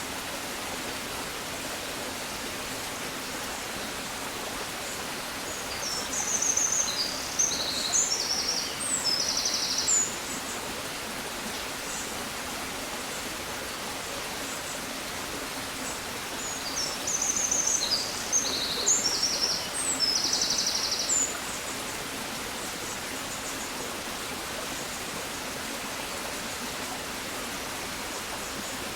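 A songbird sings the same phrase twice, about eleven seconds apart: a quick run of high chirping notes ending in a brief trill. Under it is a steady, even hiss.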